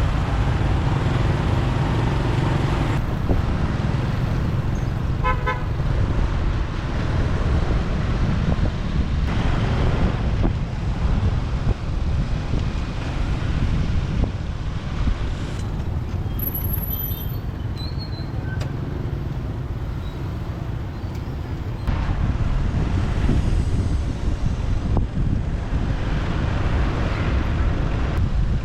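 Continuous rumble of a motorbike riding through city traffic, with wind on the microphone. A vehicle horn gives a short toot about five seconds in.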